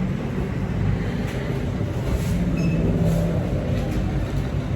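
A steady low rumble, with no clear source standing out from it.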